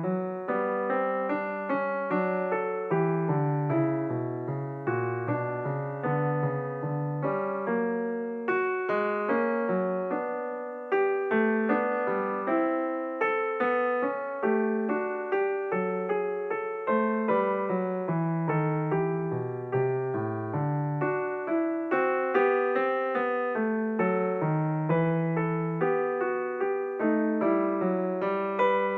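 Background piano music: a slow minuet played as a steady stream of struck notes, each fading away, with a low bass line beneath.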